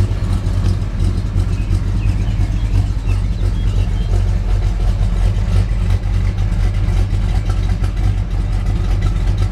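1969 Dodge Charger R/T's 440 V8 idling steadily.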